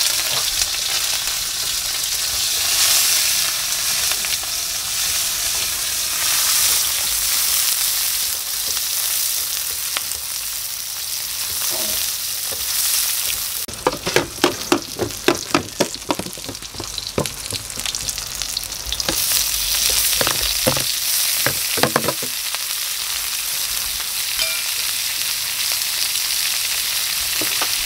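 Food sizzling in a steel wok over a gas burner, with a spatula stirring through it: shallots, garlic and fermented wild boar (perkasam) frying. About halfway through comes a quick run of sharp knocks of the spatula against the wok, and a few more a little later.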